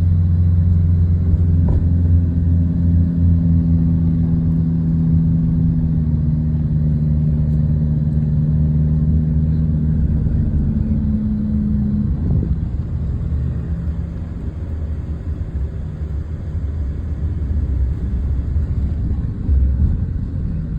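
Car engine and road noise heard from inside the cabin while driving: a steady low hum that eases off about twelve seconds in.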